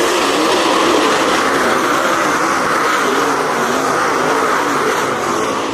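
Several race car engines running hard on a dirt oval, their pitches rising and falling as the cars lap the track, easing off slightly near the end.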